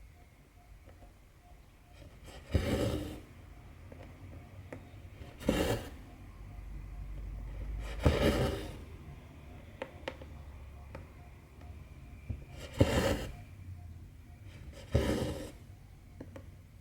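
Cotton embroidery thread pulled through 14-count cross-stitch canvas: five short rasping pulls, one every two to three seconds, with faint needle ticks between them.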